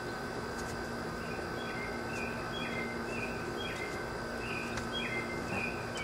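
A small bird chirping outdoors in a quick series of short, high notes, two or three a second, starting about a second in, over a steady background hiss with a faint steady high tone.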